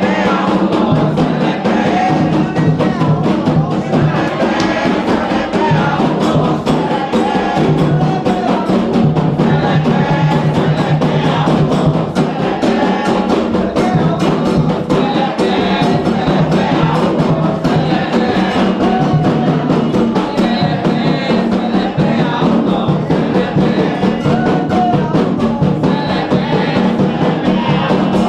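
Candomblé atabaque drums playing a fast, steady rhythm for the dance of the orixá Oyá, with voices singing a chant over them.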